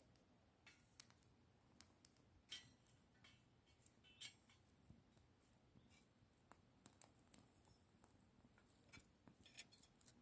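Wood bonfire crackling faintly: irregular sharp snaps and clicks, a few louder pops among them.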